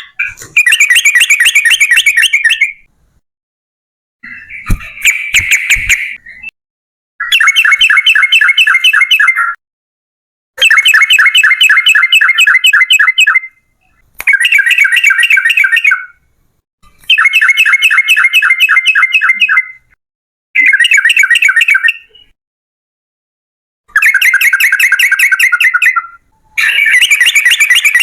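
Yellow-vented bulbul (trucukan) singing its long, rolling 'ropel' song: about nine loud bouts of fast repeated bubbling notes, each lasting two to three seconds, with short pauses between them. A few brief knocks come with the weaker second bout.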